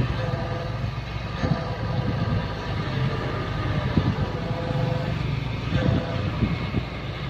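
Excavator's diesel engine running steadily, with a few light knocks.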